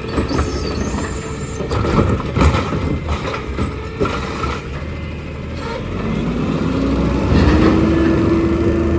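Garbage truck at work: several metal clanks and knocks in the first half, then the engine revs up about six seconds in and holds at a steady higher pitch.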